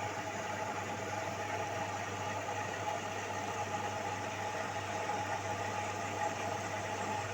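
LG direct-drive washing machine running steadily on a cotton cycle, a constant hum with mechanical noise and no breaks.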